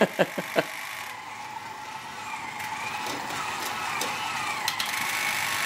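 Battery-powered toy tractor running, its small electric motor and plastic gears whining steadily and getting gradually louder.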